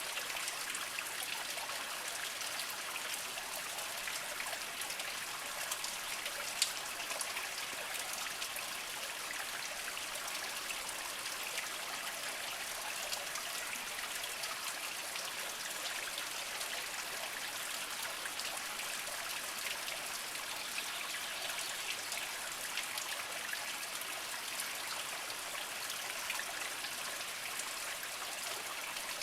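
Small mountain spring trickling and splashing steadily over mossy rocks. One short sharp click about six and a half seconds in.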